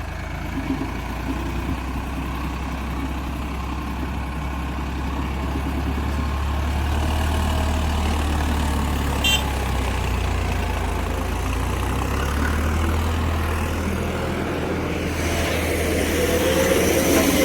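A heavy diesel engine, a backhoe loader or tractor, runs steadily with a deep low hum. There is one sharp click about nine seconds in, and the sound grows louder and noisier near the end.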